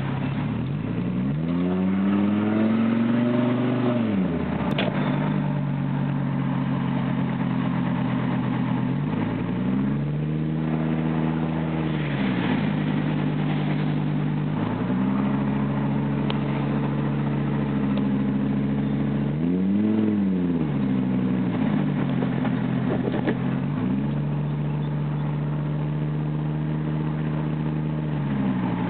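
Straight-piped exhaust of a 1998 Volvo V70 AWD's turbocharged five-cylinder engine, with no mufflers, while driving. The revs climb and drop back several times, about a second in, near 10 s, near 15 s and with a short sharp rise near 20 s, and hold steady between.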